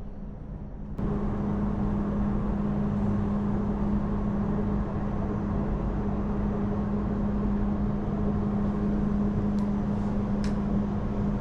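Ferry engines droning steadily with a strong low hum, cutting in abruptly about a second in. A few faint clicks sound near the end.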